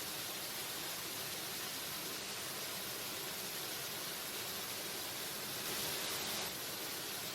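Waterfall: a steady rush of falling water, swelling slightly about six seconds in.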